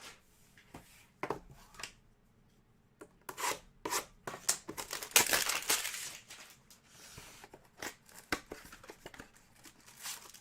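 Cardboard and wrapping on trading-card hanger boxes being torn open and the cards handled: a string of short tearing and crinkling rasps, with a longer, louder tear about five seconds in.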